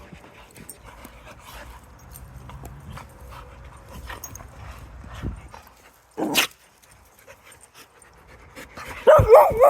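Dogs at play: low scuffling for the first few seconds, one short sharp sound about six seconds in, then a loud, wavering, whine-like dog vocalization near the end.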